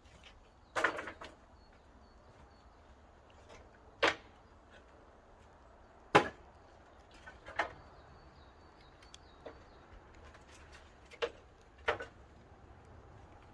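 Wood knocking sharply against wood, about six irregular knocks, the first a quick cluster of clacks.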